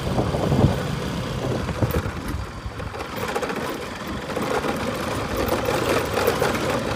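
Motorcycle engine running during a ride, with a steady, even noise of road and rushing air.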